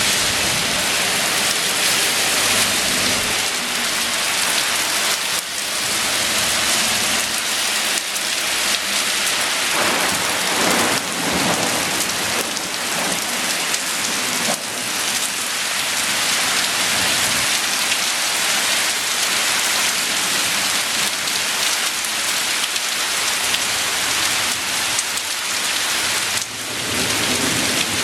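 Heavy thunderstorm downpour: a dense, steady hiss of rain on surfaces, with a low rumble of thunder dying away in the first few seconds.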